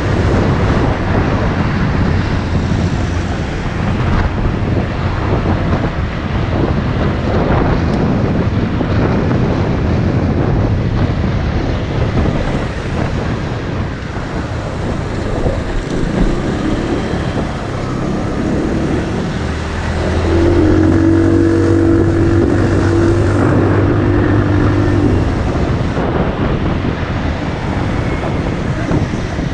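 Motorcycle engine running on the move, under heavy wind noise on the microphone. About twenty seconds in, a steady engine note stands out louder for about five seconds, then sinks back into the noise.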